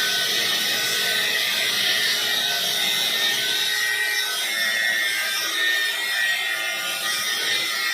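Angle grinder cutting into the steel shell of a refrigerator compressor to open it: a steady, high-pitched grinding.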